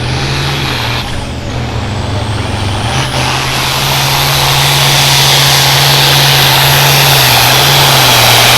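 Turbocharged diesel farm tractor engine at full throttle under the load of a pulling sled, with a high turbo whistle over the engine note. The note dips briefly about a second in, then climbs back and holds, growing louder through the second half.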